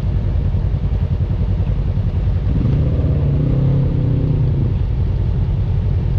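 Off-road vehicle engine running steadily, with an engine note that rises and then falls for about two seconds midway through.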